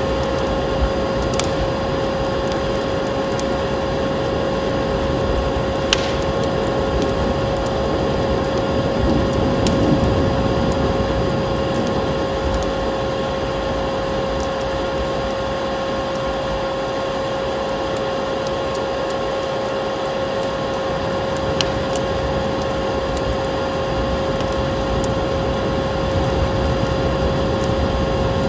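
Vacuum cleaner motor running steadily with a constant whine, joined by a couple of sharp crackles from a wood fire.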